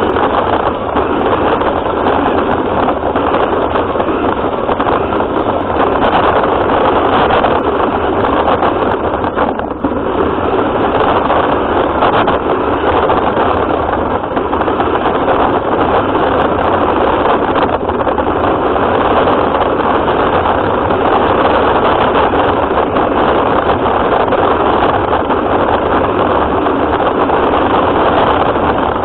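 An RC car running along with a steady mechanical noise, dipping briefly about ten seconds in.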